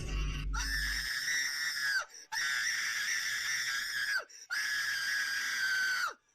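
High-pitched screaming, three long screams each held steady and then dropping in pitch at the end. A low rumble fades out about a second in.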